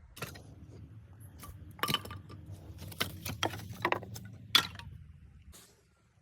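Hard objects clinking and knocking together in an irregular run of sharp strikes, the loudest a little past the middle, over a low steady hum.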